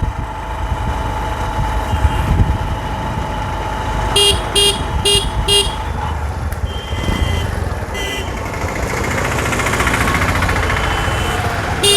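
Riding a 110 cc Honda Livo motorcycle in traffic: a steady engine and wind rumble. About four seconds in, a vehicle horn toots four times in quick succession, followed by two more toots a few seconds later.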